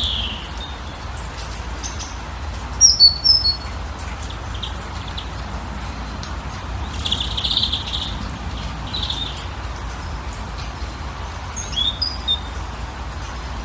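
Wild birds chirping in short, scattered calls over a steady background hiss, with a loud cluster of sharp chirps about three seconds in and further calls near the middle and near the end.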